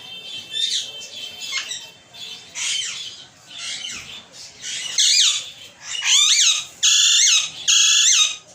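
Pet parrot squawking: a run of shrill, pitch-bending calls, softer and spaced out at first, then louder and coming in quick succession over the last few seconds.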